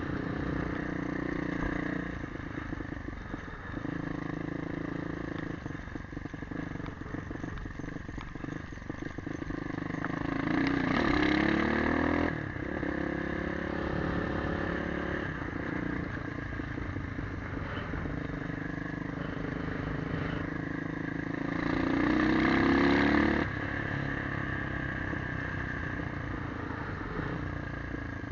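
Motorcycle engine running while riding, with two louder stretches where it revs up, rising in pitch, each ending abruptly: about a third of the way in and again about two-thirds in.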